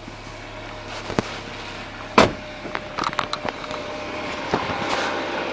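MINI Cooper being started from cold. There is a loud knock about two seconds in, then a cluster of clicks and a mechanical whir that rises toward the end as the engine comes to life.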